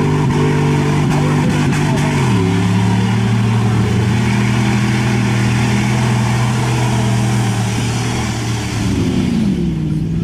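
An off-road vehicle's engine held at high, steady revs. It drops in pitch about two seconds in, holds, then climbs again near the end.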